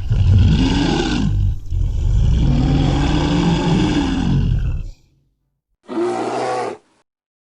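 Tiger roaring and growling in deep, drawn-out calls: one short, then a long one lasting about three seconds, then a brief higher call after a sudden break near the end.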